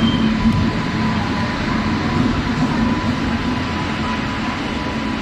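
Express train of a WAP-7 electric locomotive and ICF coaches rolling past the platform: a steady rumble of wheels and cars with a steady hum from the locomotive.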